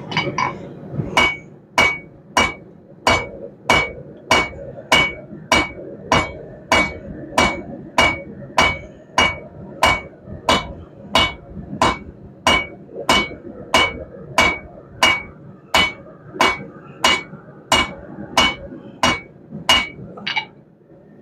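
Blacksmith's hammer striking hot half-inch round steel stock on an anvil in a steady rhythm, about three blows every two seconds, each blow ringing. The smith is drawing out the end of the bar to a taper. The blows stop about a second before the end.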